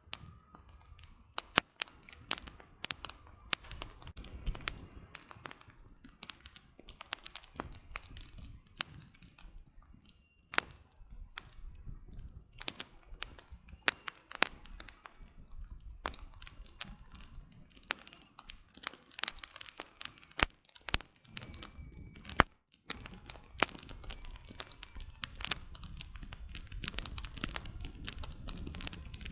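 Campfire of burning firewood, crackling and popping in dense, irregular snaps over a low steady rush of flame.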